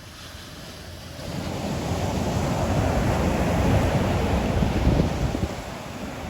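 Ocean waves breaking on the shore. A wave swells about a second in, surges loudest for a few seconds, then eases off near the end.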